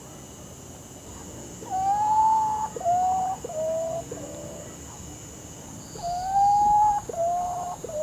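Potoo calling twice: each phrase is a long, clear, mournful note that rises slightly and falls, followed by three or four shorter notes stepping down in pitch. A steady high insect drone runs behind it.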